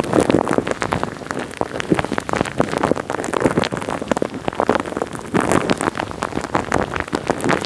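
Wet, sticky crackling made directly on the microphone: a dense, continuous run of small pops and clicks.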